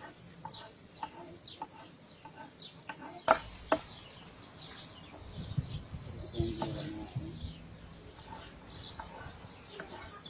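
Birds chirping over and over in short, falling calls, with a lower call in the middle. Two sharp knocks come in quick succession a little over three seconds in.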